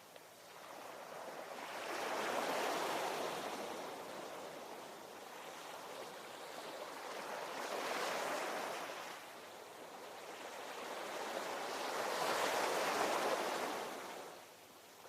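Ocean waves breaking, three swells of surf about five seconds apart, each rising to a hiss and washing back out.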